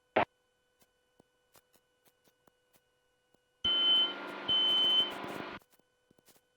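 A sharp click, then about two seconds in the middle of a burst of static-like noise on the headset audio that starts and stops abruptly, with two short electronic beeps in it.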